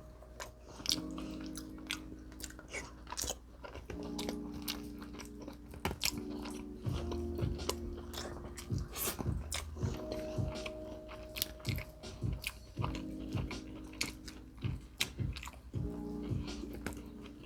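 Close-miked chewing and biting: wet mouth sounds and many short sharp clicks as curry beef is eaten. Soft background music with held chords plays underneath.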